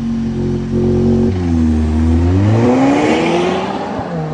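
Loud exhaust of a muffler-deleted 2017 Audi A4 held at steady revs. About a second and a half in, the revs dip as the car pulls away, then rise in one long climb under hard acceleration: a launch.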